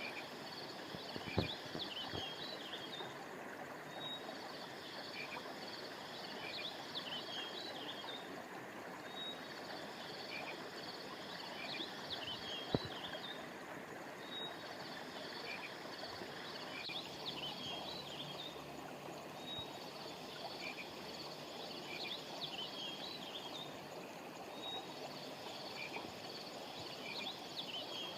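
Steady rush of flowing river water, with a set of high chirping calls that repeats about every four and a half seconds. Two brief sharp clicks come through, one early and one near the middle.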